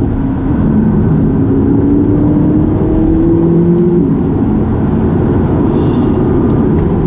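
McLaren 570GT's twin-turbo V8 pulling under acceleration, its pitch rising steadily for about three seconds and then dropping about four seconds in, over a steady loud drone of engine and road noise.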